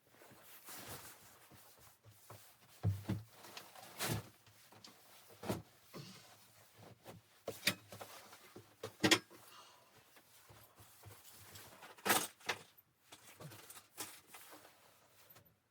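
Irregular knocks and clicks with faint rustling between them, the loudest about three, four, nine and twelve seconds in: objects being handled.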